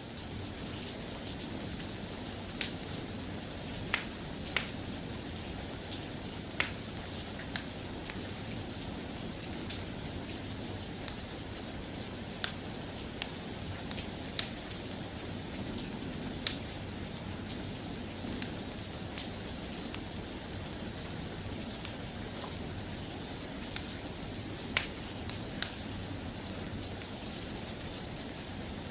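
Steady rain falling, an even hiss with scattered sharp ticks of drops or pops at irregular moments.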